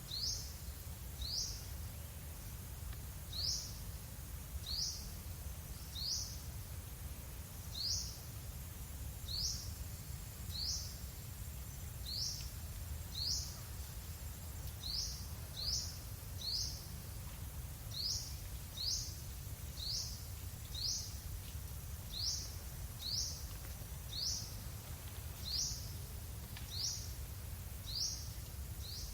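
A bird repeating a short, high chirp that sweeps downward, about once a second and now and then two close together, over a steady low rumble.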